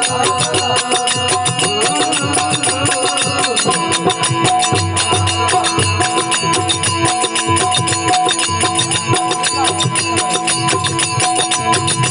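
Instrumental passage of a Rajasthani desi veena bhajan. Plucked strings play over steady held drone tones, with fast, even percussive strokes throughout.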